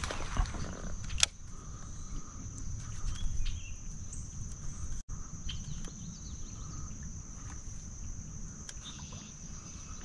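Outdoor waterside ambience: a steady high-pitched insect drone over a low rumble, with one sharp click about a second in and a few faint bird chirps midway.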